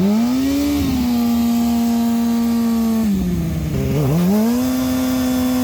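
Motorcycle engine revved and held at high revs, dropping briefly about three seconds in, then revved up and held again: a stationary burnout, the front brake held while the rear tyre spins.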